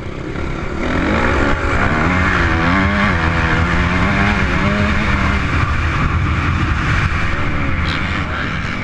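Motocross bike engine running under load, its pitch rising and falling as the throttle opens and closes, with a steady rushing noise over it.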